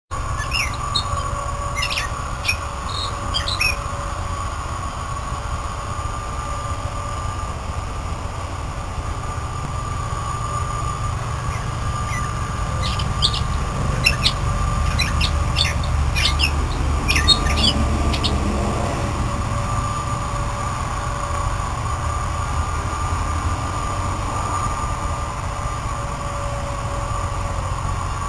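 A bird chirping in short quick notes in two spells, near the start and again around the middle, over a steady low rumble and hum.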